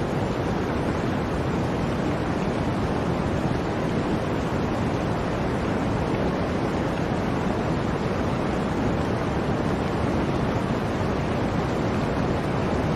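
Blizzard wind: a steady, even rush of wind noise that does not rise or fall.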